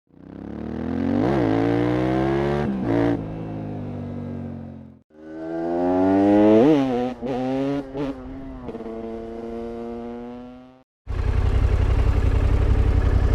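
Yamaha Ténéré 700's CP2 parallel-twin engine through an Akrapovic exhaust, revving up and settling with quick throttle blips, in two short passages that fade in and out. About eleven seconds in it changes to the engine idling steadily close by.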